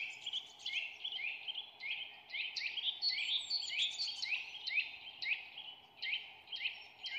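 A bird chirping in a quick, steady series of short falling chirps, about three a second, over a faint steady hiss.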